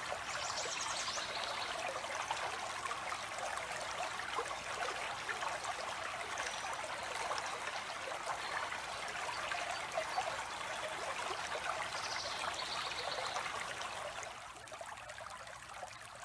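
Stream water flowing and trickling steadily, with a bird giving a short high trilled call twice, near the start and again about twelve seconds in. The sound fades down near the end.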